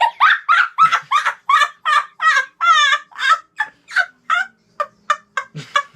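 A rapid run of about twenty short, loud, pitched calls, each bending up and down in pitch, at three to four a second. It sits alone, without the room hum around it, like an added sound effect.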